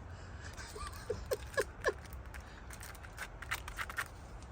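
A cockatoo's beak biting and tearing at a Scrub Daddy foam sponge: a run of small crackling clicks, with a few short squeaks about a second in.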